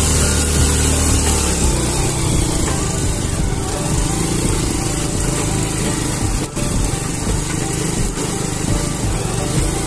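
Motorcycle engine running as the bike is ridden, with a steady hum and road noise. The low engine note drops away about two seconds in.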